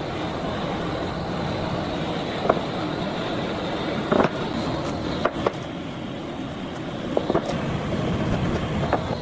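A machine running with a steady rumbling noise, with a few sharp knocks scattered through, the strongest about four and five seconds in.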